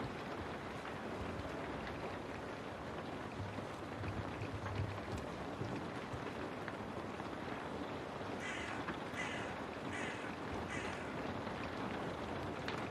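Steady rain, with a crow cawing four times in quick succession about two-thirds of the way through.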